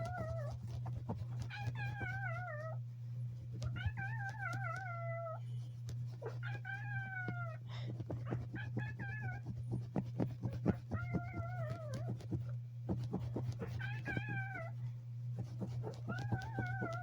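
Kitten giving a series of drawn-out, wavering meows, about one every two seconds, each lasting around a second.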